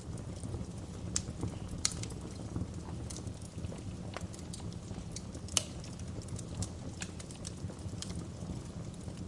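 Wood fire burning in a fireplace and crackling: irregular sharp pops and snaps over a steady low rumble of the flames, the loudest pop about five and a half seconds in.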